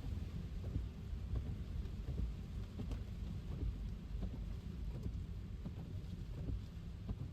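Car driving in the rain: a steady low rumble of tyres on a wet road, with raindrops tapping at scattered moments.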